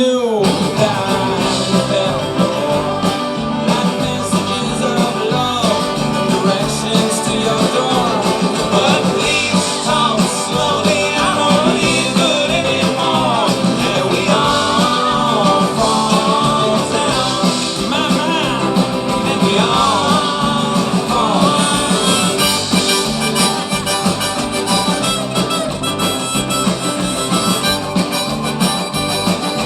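Band music with a harmonica playing the melody over guitar.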